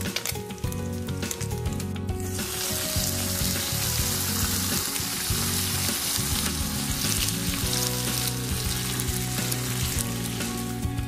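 Shrimp fried rice sizzling in a hot stone-coated frying pan, the hiss starting about two seconds in and fading near the end, over background music.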